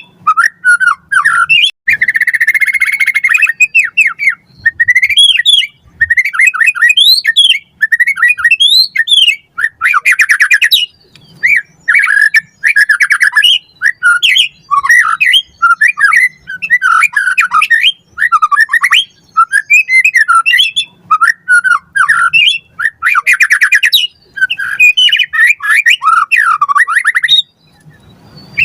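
White-rumped shama (murai batu) singing a long, varied song of whistled phrases that swoop up and down, broken by rapid buzzy trills about a third of the way in and again near the end.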